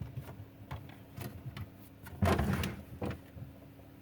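Plastic refrigerator crisper drawer being pulled open, with light clicks and knocks and a louder sliding scrape a little past halfway through.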